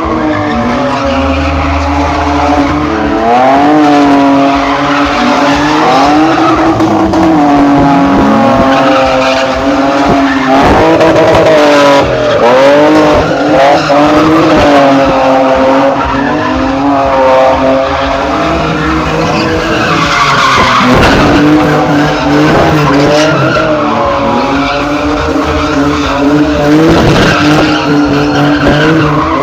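Drift car's engine revving hard, its pitch rising and falling again and again as the throttle is worked, over the noise of skidding, spinning tyres.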